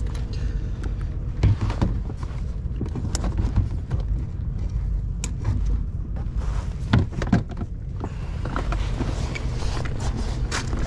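Steady low rumble of wind on the microphone, with scattered knocks and thuds of handling in the boat, the loudest about one and a half and seven seconds in.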